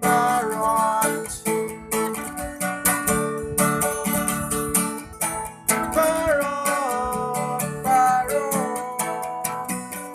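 Song outro played by a band: strummed guitar chords under a lead line with bent, gliding notes, over a steady bass and drum rhythm.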